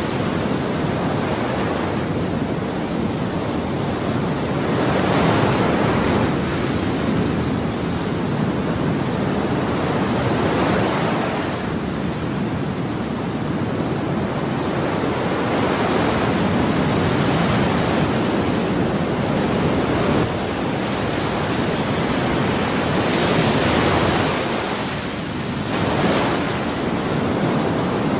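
Ocean waves breaking and washing on a shore, a continuous rushing hiss that swells and ebbs every few seconds.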